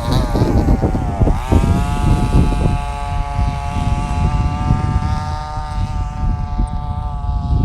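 Traxxas Slash RC short-course truck's motor and drivetrain whining at speed: the pitch wavers, dips sharply about a second in, then climbs and holds a high steady whine that slowly eases off. A low rumbling noise runs underneath.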